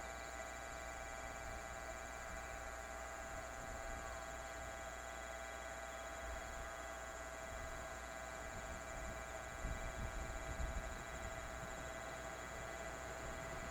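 Steady electrical hum made of several held tones over a faint low rumble, with the rumble swelling briefly about ten seconds in.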